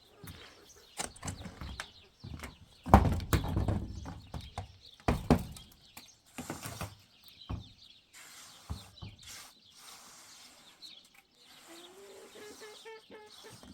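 Irregular knocks and scuffing sounds, the loudest a little under three seconds in, with a short rising animal call near the end.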